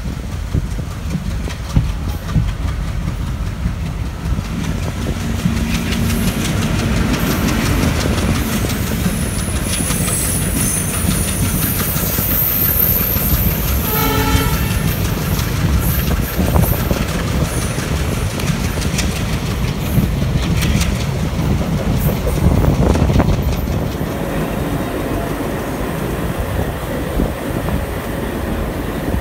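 Running noise of a moving passenger train heard from an open coach doorway, with steady rumble and wheel clatter on the rails while another passenger train passes on the adjacent track. A short horn blast sounds about halfway through.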